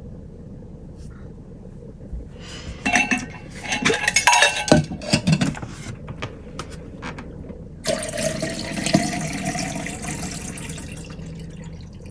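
Glass and dishes clinking a few times, then water pouring steadily into a container, its pitch rising slightly as it fills.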